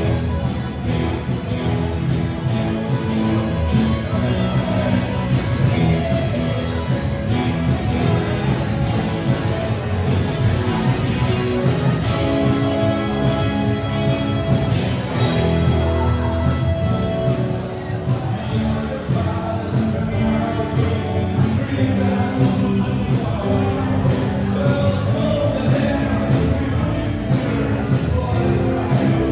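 Rock band playing live, with singing over guitars and drums.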